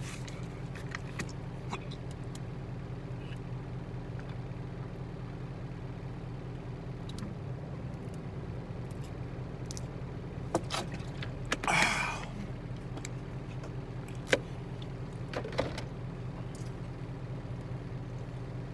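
Truck engine idling steadily, a low even hum heard from inside the cab. A few sharp clicks and a brief rustle over the hum in the second half.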